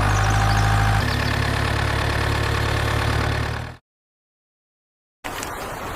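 Steady engine-like drone with a mechanical hum that shifts slightly about a second in. It cuts off to dead silence just before four seconds, then a fainter, different noise starts near the end.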